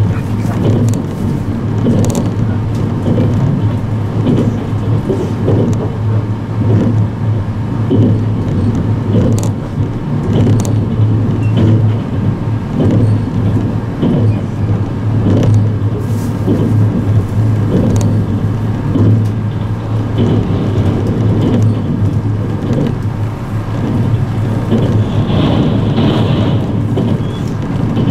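Cabin running noise of an electric limited express train at speed: a steady low hum with a rhythmic clatter of the wheels over the rails. A brief high ringing sound passes near the end.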